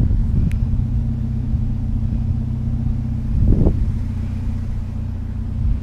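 Truck engine idling steadily, with a short knock or clatter about three and a half seconds in.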